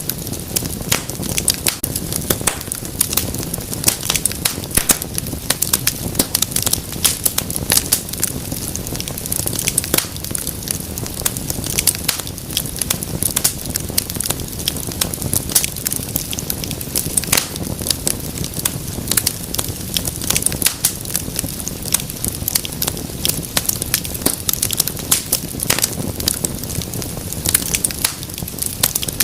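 Wood fire crackling and popping in a fireplace: frequent irregular sharp snaps over a steady low rumble and hiss of flames.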